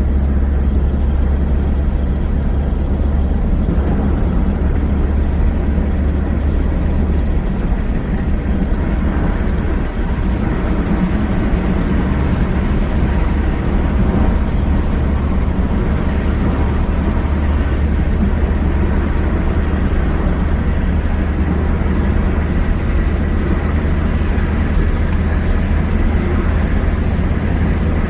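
Steady low rumble of a road vehicle driving along, engine and tyre noise without change.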